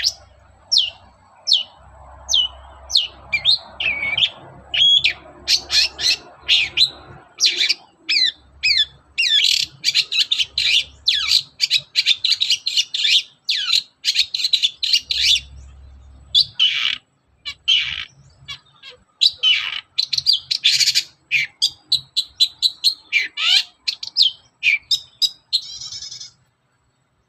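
Long-tailed shrike (cendet) singing: a rapid string of short, sharp, high notes running into fast chattering phrases, with brief pauses between them. The song breaks off near the end.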